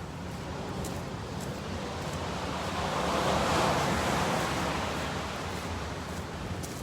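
Ocean surf: a wave breaks and its wash swells to a peak about halfway through, then fades back to the steady rush of the sea.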